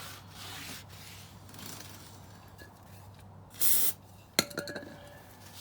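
A short hiss of an aerosol spray lasting about a third of a second, then a sharp metallic clink that rings briefly, about half a second later.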